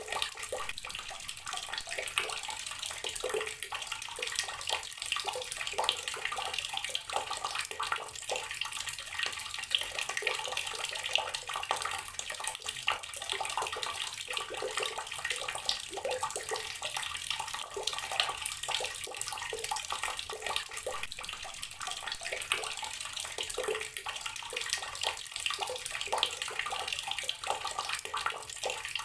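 Water tap running steadily, a continuous stream of water splashing.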